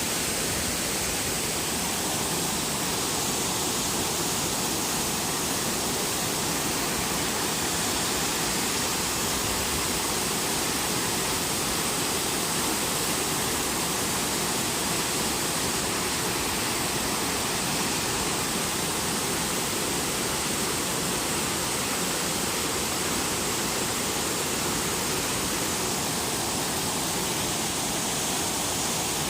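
Waterfall: water falling and rushing in a constant, unbroken roar.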